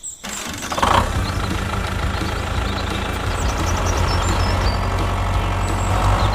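Engine idling steadily with a low rumble, starting abruptly just after the beginning, with a brief louder burst about a second in.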